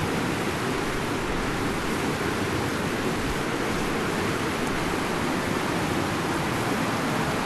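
Fast mountain river rushing, a steady, loud wash of water noise.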